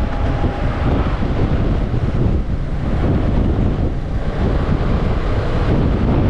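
Wind buffeting the microphone of a motorcycle-mounted camera while riding a Yamaha Tracer 700, with the bike's engine and road noise underneath as a steady loud rumble.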